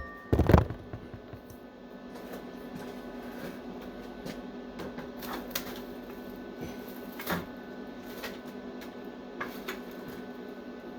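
A couple of loud knocks at the start as things are moved aside, then scattered light clicks and knocks over a steady machine hum.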